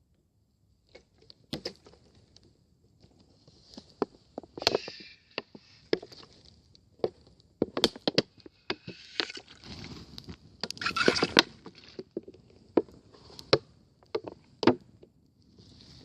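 Wood campfire crackling, with irregular sharp pops and a soft hiss swelling now and then.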